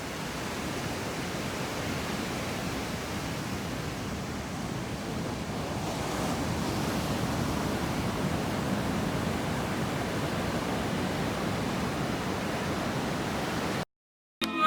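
Steady rush of ocean surf that cuts off abruptly near the end.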